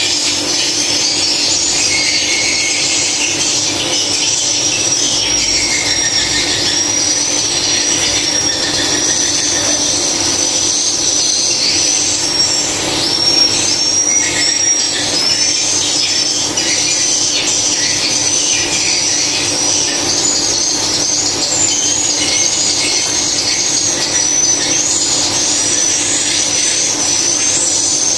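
Swiftlets twittering: a dense, unbroken run of short, high chirps, with a steady low hum beneath.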